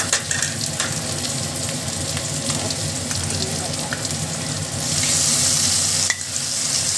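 Onions and whole spices frying in hot oil in a kadai: a steady sizzle, with a few sharp clicks of a spatula and spoon against the pan early on. The sizzle swells for about a second near the end, as spoonfuls of ginger paste go into the oil.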